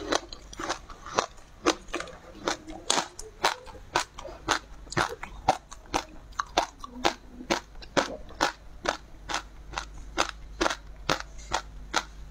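Close-up biting and chewing of sea grapes: crisp crunching and popping, a little over two sharp crunches a second, steady throughout.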